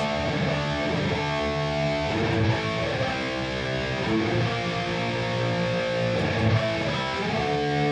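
Electric guitar played through a Boss Katana Gen 3 212 amp: a run of chords, each ringing and then changing to the next every second or so. The amp's Contour 1 is set high, which boosts the mids and cuts the lows.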